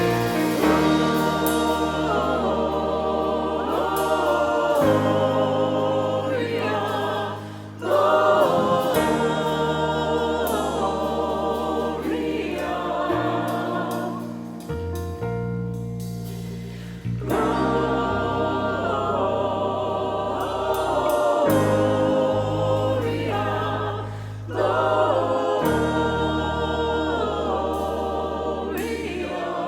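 Church choir singing slow, long-held chords with accompaniment over sustained bass notes, phrases swelling and easing off every few seconds.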